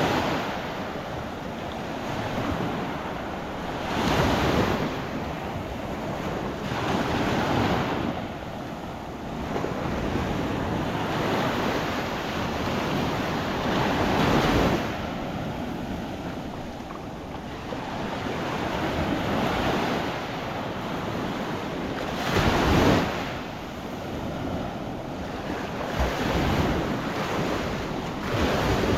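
Gulf surf breaking and washing up on a sandy beach, swelling with each wave every few seconds, the loudest break a little past two-thirds of the way through. Wind buffets the microphone with a low rumble underneath.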